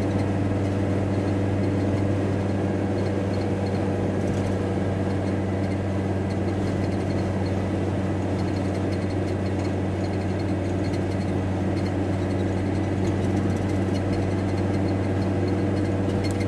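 Steady low drone of a VW T4 Transporter van's engine and road noise, unchanging in pitch or level.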